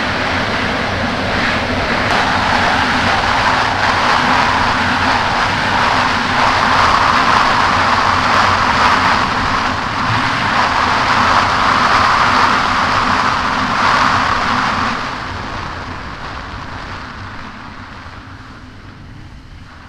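Kawasaki Ultra 300X jet ski running at speed over choppy water, a steady engine note under loud rushing water and wind. About fifteen seconds in it eases off and the noise dies steadily down as the craft slows.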